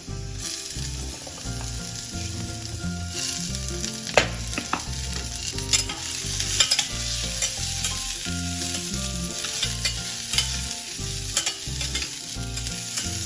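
Chopped onion sizzling in hot oil while a spatula stirs it, scraping and clicking against the metal pan. The sizzle grows louder just after the start.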